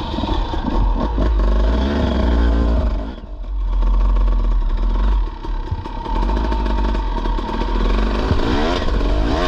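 Dirt bike engine running under throttle, its pitch rising and falling as it revs up and eases off, with a brief drop off the throttle about three seconds in.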